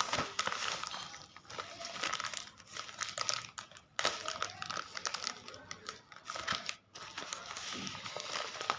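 Courier packaging being opened by hand, crinkling and rustling in irregular crackly bursts, with a sharper burst about four seconds in.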